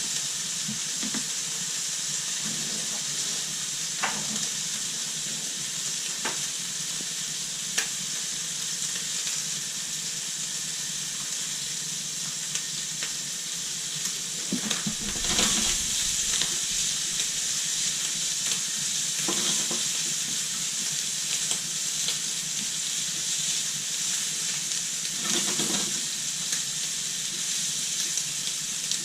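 Food frying in a pan with a steady sizzle, broken by a few short knocks and scrapes of a cooking utensil, the busiest of them about halfway through.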